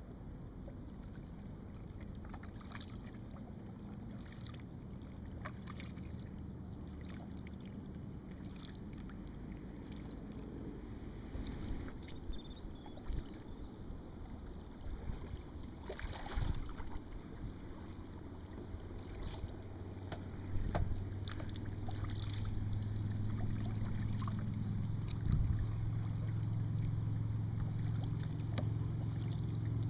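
Kayak paddling on open water: scattered paddle splashes and drips, busiest in the middle, over a low steady hum that grows louder in the second half.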